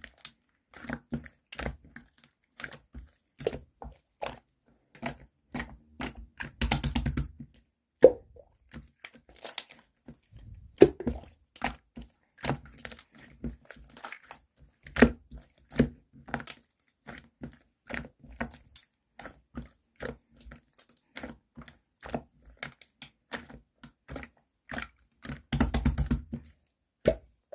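Clear, jelly-like slime being pressed and squished by hand: many short sticky clicks and pops, with two runs of rapid squelching about seven seconds in and near the end.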